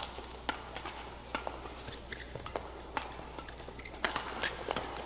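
Badminton rally: a quick series of sharp racket strikes on the shuttlecock, about one every half second to a second.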